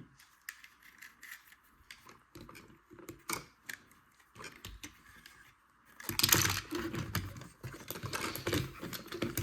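Plastic LEGO parts being handled and pressed together: scattered small clicks and rattles, busier from about six seconds in.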